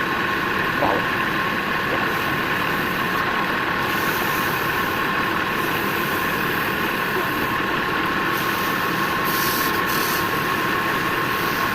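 Woodturning lathe running steadily with a constant high motor whine.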